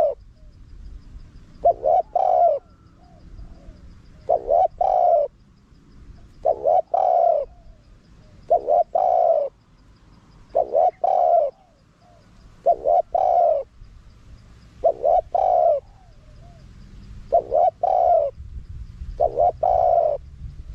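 Spotted dove cooing: the same phrase repeated about every two seconds, each two short clipped notes followed by a longer coo.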